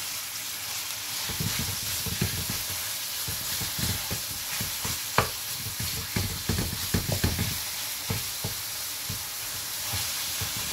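Raw minced beef and chopped onion sizzling in a metal frying pan while a wooden spatula stirs and scrapes through it, with scattered knocks of the spatula on the pan, the sharpest about five seconds in. The mince has just gone in and is cooking in its own juices.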